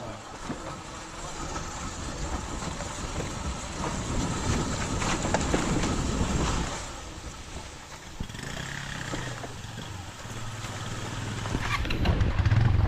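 A motor vehicle on a rough dirt road: a noisy rumble at first, then from about eight seconds in a steady engine hum that grows louder toward the end.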